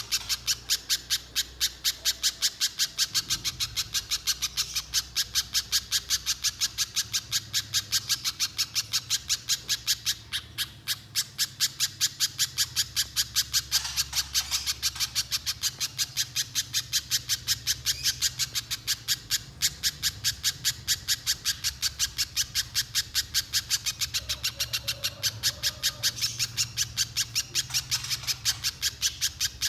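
Spiderhunter (pijantung pisang) calling nonstop in a long, fast run of sharp, high notes at about five a second, without a pause.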